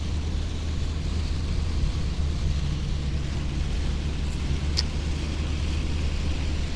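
Steady low rumble of a pickup truck driving, heard from inside the cab, under an even hiss of heavy rain. A single short click comes about five seconds in.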